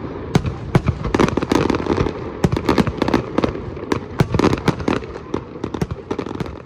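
Norfolk Southern freight train's wheels clattering over the rail as the cars roll past: a rapid, irregular run of sharp clacks over a steady rumble.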